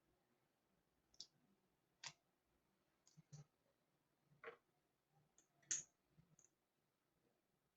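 Near silence broken by about seven faint, irregular clicks and light taps.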